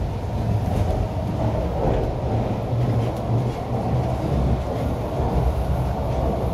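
MTR Island Line Q-Train in motion: a steady rumble of wheels on rail and running gear, with a few faint clicks.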